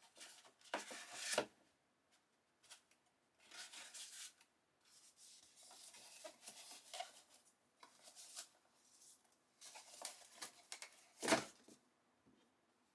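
Packaging being handled during an unboxing: several short bursts of rustling with small clicks, and one sharp knock about eleven seconds in, the loudest sound.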